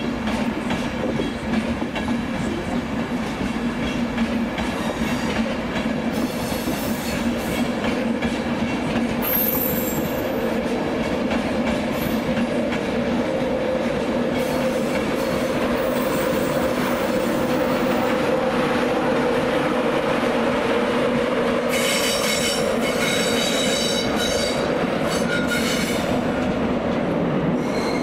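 A train running slowly over station track with a steady low drone, and bursts of high-pitched wheel squeal, once about six seconds in and again, longest, from about twenty-two to twenty-six seconds in.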